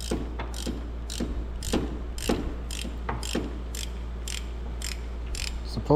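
Ratchet wrench clicking steadily, about two clicks a second, as it loosens the bolt on a timing belt tensioner pulley.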